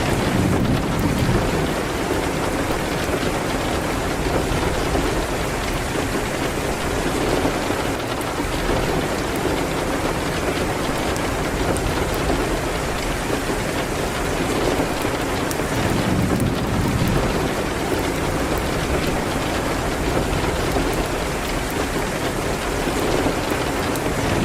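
Steady heavy rain hitting a window, mixed with a crackling fireplace, with a low rumble swelling up near the start and again about two-thirds through.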